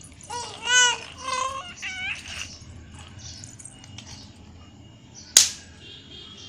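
A four-month-old baby making high-pitched squealing vocal sounds: three short squeals that bend up and down within the first two and a half seconds. A single sharp click about five seconds in is the loudest sound.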